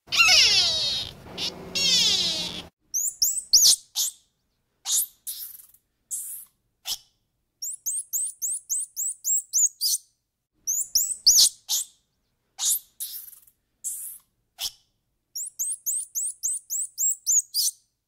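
A drawn-out animal call with sliding pitch for the first couple of seconds, then high-pitched bird chirps in quick trills of about eight notes a second, broken by short silences.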